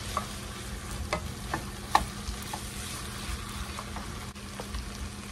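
Browned ground beef, bacon and vegetables sizzling in a ceramic-coated pot with bouillon paste being toasted in, stirred with a wooden spatula. Several sharp knocks of the spatula against the pot, the loudest about two seconds in.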